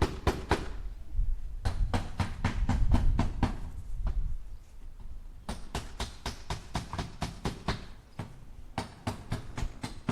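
Hammer driving nails into wood in quick runs of strikes, about five a second, with short pauses between the runs.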